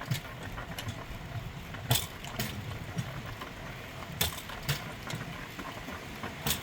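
Rail bike's steel wheels rolling along the rails with a steady low rumble, clicking over the rail joints in pairs about half a second apart, the pairs repeating every couple of seconds.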